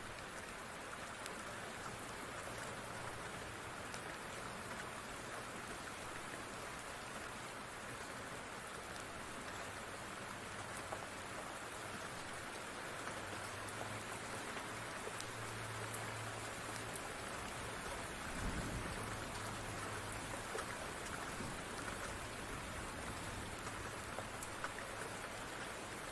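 Steady rain falling, with occasional faint crackles from a wood fire. A brief low rumble comes about two-thirds of the way through.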